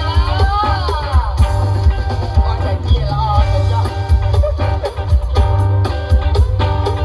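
Live Khmer kantrum music for likay theatre in a steady four-beat rhythm, with heavy drums and a high melody line that slides up and down in pitch about a second in.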